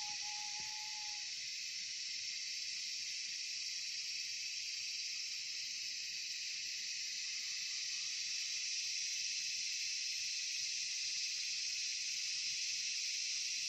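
Steady chorus of insects, a dense high-pitched drone without breaks. A thin steady tone stops about a second in.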